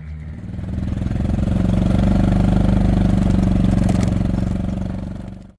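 An engine running with a steady pulsing, swelling over the first second and a half, holding steady, then fading out near the end.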